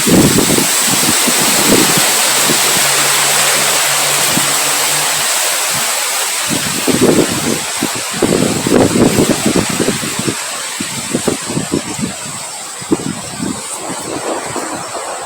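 Steady rain hiss with wind, gusting in irregular low rumbles that grow more frequent about halfway through, under a thin steady high whine.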